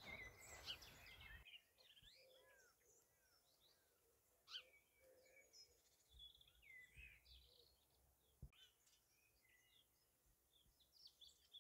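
Faint birdsong over near silence: small birds chirping in short, scattered phrases, with one sharp click about eight seconds in.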